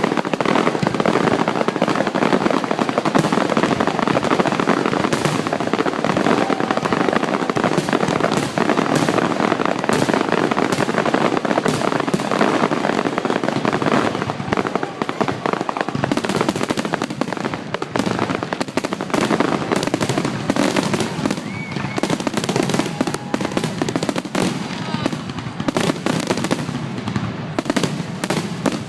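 Fireworks finale: a dense, continuous barrage of shell bursts and crackling, many bangs a second overlapping, easing slightly in the second half.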